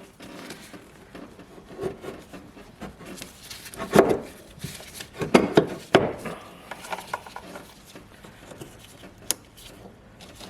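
Parts being handled and fitted by hand in an engine bay: scattered rubbing and light knocks, a few louder knocks around the middle, and one sharp click about nine seconds in.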